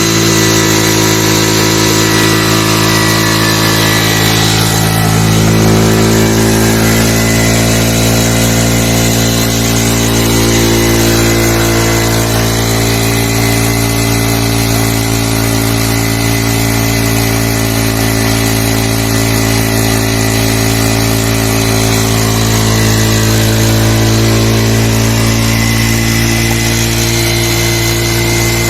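Honda CD 70 motorcycle's single-cylinder four-stroke engine running steadily, driving a tubewell water pump; its pitch shifts slightly a few seconds in and then holds.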